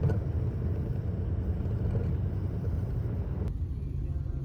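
A car driving, with a steady low road rumble; the lighter hiss above it drops away suddenly about three and a half seconds in.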